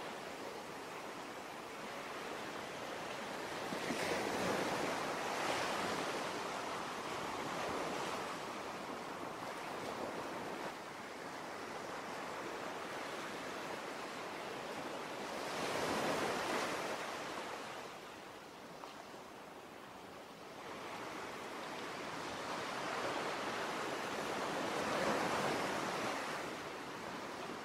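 Sea surf: a steady rush of waves that swells and falls back every several seconds.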